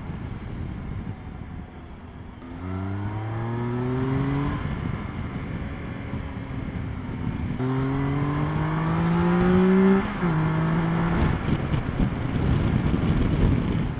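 Motorcycle engine pulling hard on the open road, rising in pitch twice under acceleration, with a sudden drop about ten seconds in as it shifts up a gear. Wind noise rushes over the microphone throughout.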